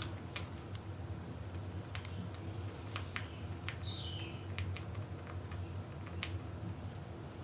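Cockatiels husking millet seeds, their beaks making scattered sharp clicks, with one short falling chirp a little before the middle.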